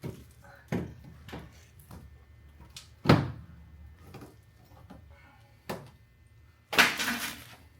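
Scattered knocks and clunks of hard objects being handled, with one loud thump about three seconds in and a short rushing noise near the end.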